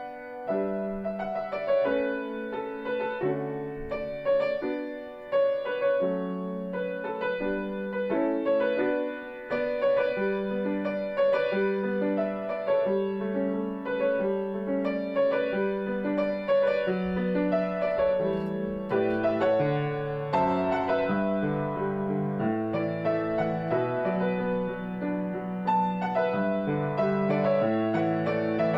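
Solo piano playing a slow, gentle ballad melody over chords. Deeper bass notes join about two-thirds of the way through.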